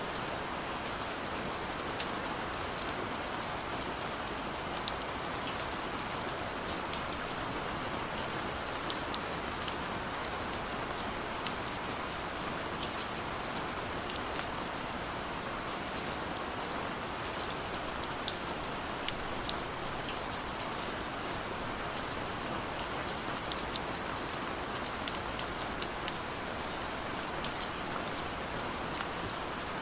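Steady gentle rain falling, an even hiss with many scattered small drop ticks.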